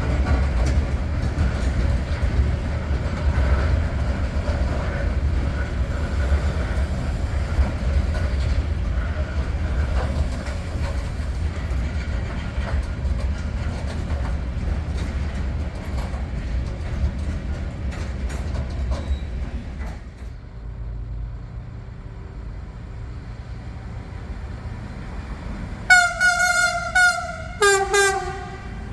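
A freight train passes, its wagons rumbling with scattered wheel clicks over the rails for about the first twenty seconds before the sound drops away to a quieter steady hum. Near the end a train horn sounds two short blasts, the second starting at a lower pitch.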